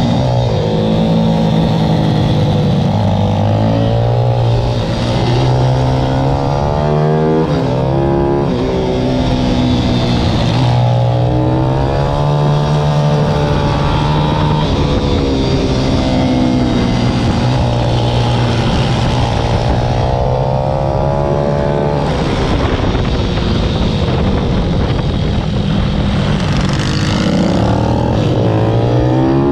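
Pit bike's IMR YX160 single-cylinder four-stroke engine running hard, its pitch climbing and dropping every few seconds as the rider accelerates and backs off.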